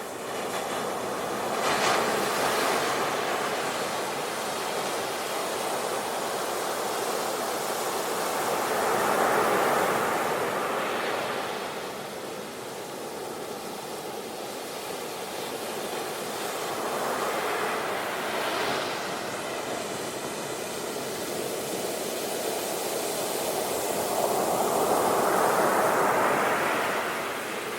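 Sea waves washing onto the shore, a continuous rushing surf that swells up with each breaking wave about every seven or eight seconds and then ebbs.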